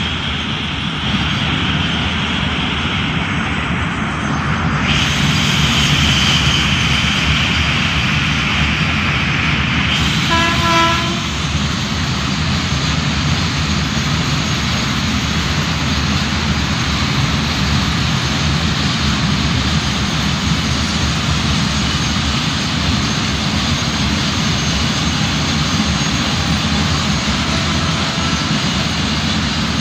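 Freight train of open box wagons rolling past at speed: a steady rumble and rattle of wheels and wagons on the rails. About ten seconds in, a brief single-pitched tone sounds over it.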